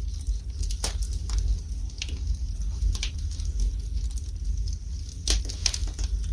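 Fire burning in a fireplace: a steady low rumble with scattered sharp crackles and pops, several coming close together near the end.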